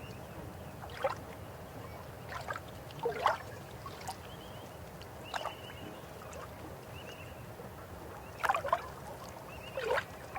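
River water running with a steady rush, broken every second or two by louder gurgling splashes, the strongest about three seconds in and again near the end. Brief high chirping trills come now and then over the water.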